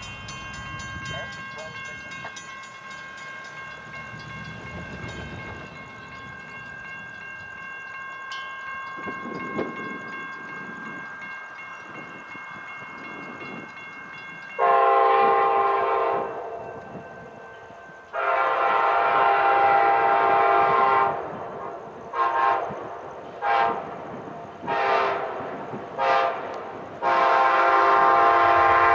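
A railroad crossing bell rings for the first half. Then an Amtrak Auto Train's diesel locomotive horn sounds loudly for the crossing: two long blasts, four short ones, and a long one near the end.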